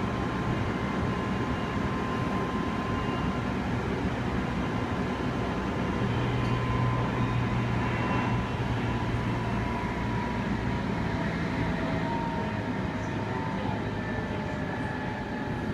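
Interior running sound of a Meitetsu 3100 series electric train: the steady rumble of wheels on rail, with a faint motor whine that slowly falls in pitch.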